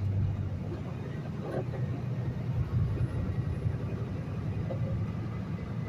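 Peterbilt semi-truck's diesel engine and road noise heard from inside the cab, a steady low rumble.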